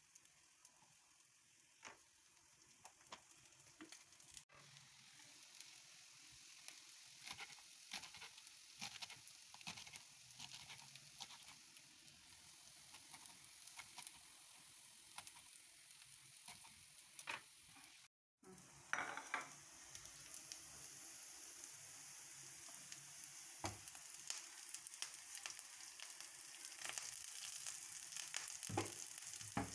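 Wild greens frying in a pan: a steady sizzle with crackles and occasional clicks of stirring. After a brief cut to silence a little past halfway, the sizzle comes back louder and grows toward the end.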